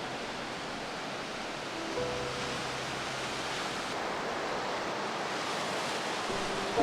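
Steady wash of waves on a lakeshore, with soft background music notes coming in around two seconds in and again near the end.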